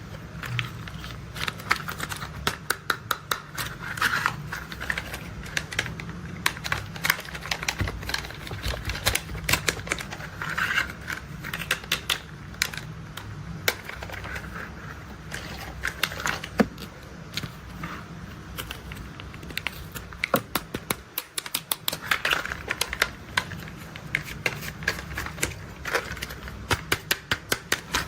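Plastic toy construction vehicles being handled and played with: rapid, irregular clicks and clatters of plastic parts in dense runs, over a low steady rumble.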